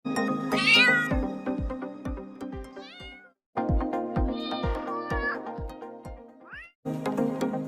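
A domestic cat meows about four times over background music with a steady beat. The loudest meow comes near the start. The audio cuts out briefly twice.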